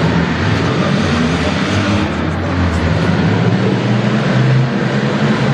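Engines of several compact demolition derby cars running together, a loud, steady mix of idling and light revving with no single crash standing out.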